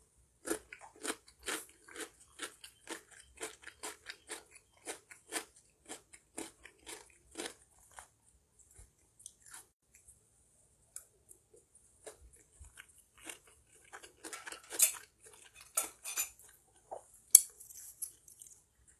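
A person chewing a mouthful of fried Maggi noodles, at about two chews a second for the first several seconds, then fainter and more scattered. A few louder, sharper clicks come a few seconds before the end.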